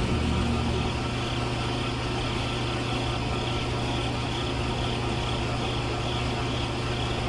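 A small motor running steadily with an even, unchanging hum.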